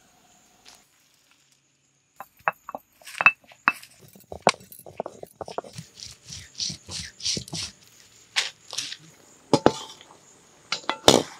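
Sharp clinks and knocks, then a run of rhythmic scraping strokes, about three a second, as wet masala paste (coconut, dry red chilli and spices) is ground on a flat grinding stone. Near the end come loud clinks of a metal ladle against the kadai.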